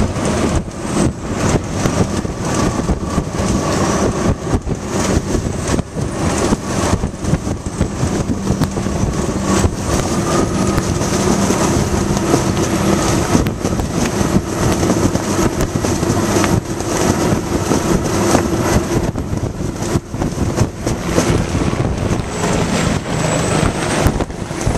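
Steady vehicle engine and road noise with wind buffeting the microphone, and a high turbine whine from a Bell OH-58 Kiowa helicopter that slowly rises and falls in pitch as it circles.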